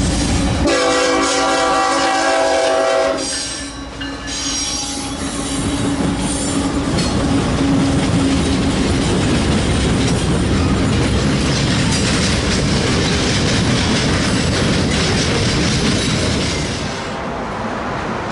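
A train's horn sounds one steady chord-like blast of about two and a half seconds near the start. The train then rolls past with a continuous rumble and clatter of wheels on the rails, easing off a little near the end.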